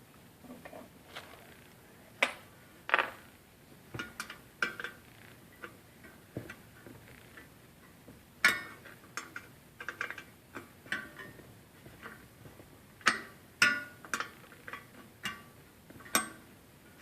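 Irregular metallic clicks and clinks of hand tools working on the fan clutch fasteners of a Jeep engine, with a few sharper knocks scattered through.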